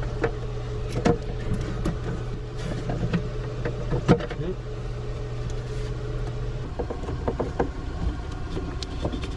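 A pump motor humming steadily as the newly plumbed dishwasher's water supply comes on, stopping about two-thirds of the way through. Scattered knocks and clatter come from work in the galley.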